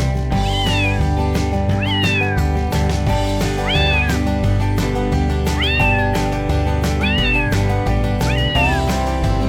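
A domestic cat meowing repeatedly, with about seven short rising-and-falling meows roughly a second apart, over background music with a steady beat.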